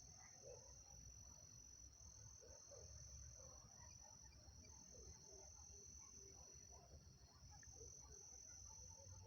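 Faint, steady high-pitched trill of night insects such as crickets, over a low hum.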